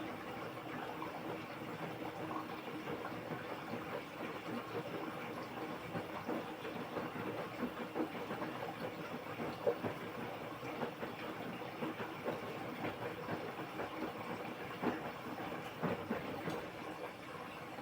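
LG washing machine running mid-cycle on its quick program: a steady watery hiss with irregular small knocks and clicks as the drum turns.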